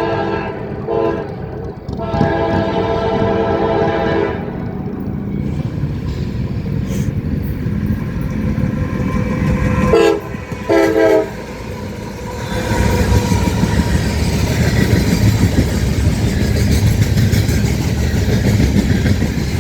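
CSX diesel locomotive horn sounding chord blasts: a short blast and then a long one in the first few seconds, and two short blasts about ten seconds in. The train's rumble under the horn grows louder about twelve seconds in as it passes close.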